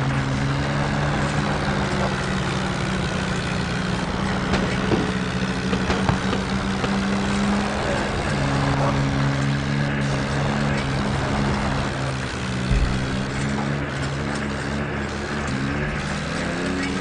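Swaraj tractor's diesel engine running steadily, its pitch dropping and rising again a few times as the engine speed changes.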